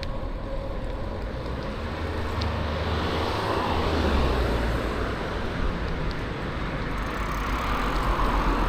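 Road traffic noise from a passing car, swelling to its loudest about four seconds in.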